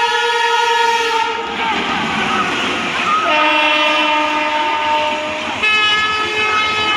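Electric locomotive horn sounding three long blasts, each at a different pitch, as a through train passes, with rail noise underneath.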